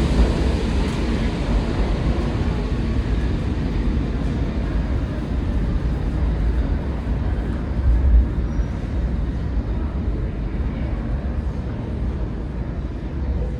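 Train running past, a steady heavy rumble whose higher, brighter part slowly fades as it moves away.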